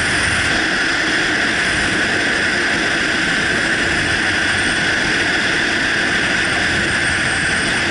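Steady rush of wind and road noise on the microphone while riding a motorcycle at speed.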